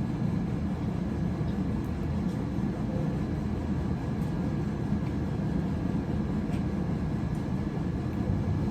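Steady low rumble of a moving vehicle's cabin, unchanging throughout, with a few faint clicks over it.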